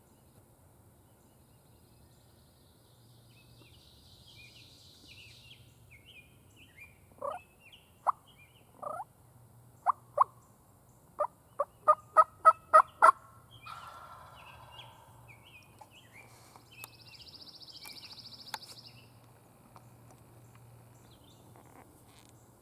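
Turkey yelps: a loud series of about a dozen short, sharp notes, coming faster toward the end, with songbirds chirping faintly and a buzzy trill twice.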